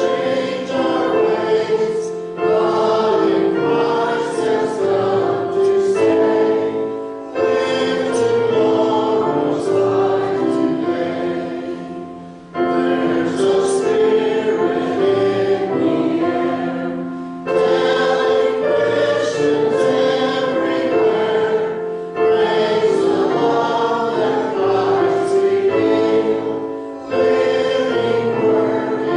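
Choir singing a slow hymn in long held phrases of about five seconds each, with a short breath between phrases.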